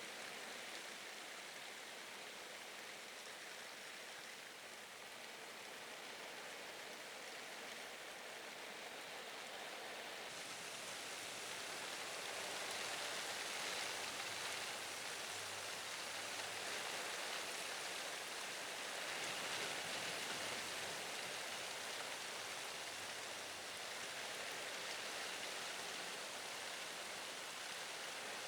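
Steady hiss of typhoon wind and rain, swelling a little about halfway through.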